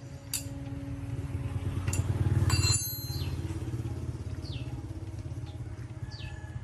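A vehicle engine running close by, louder for a moment about two seconds in and then holding steady, with a few sharp clicks. Short falling bird chirps sound over it later on.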